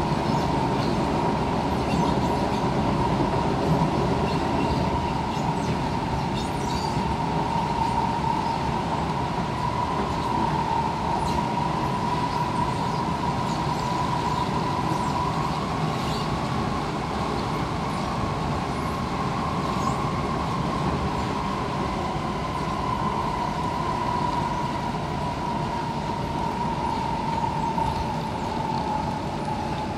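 Inside an SMRT C651 Siemens train carriage running steadily along the line: a continuous rumble from the wheels and running gear, with a steady high whine that rises slightly in pitch midway and falls back a little near the end.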